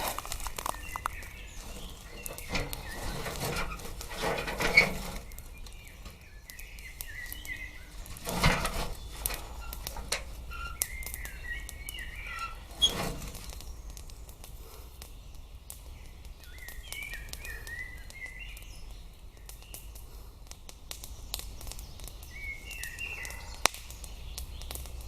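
A songbird singing short chirping phrases, about one every five or six seconds, with a few knocks and rustles in the first half.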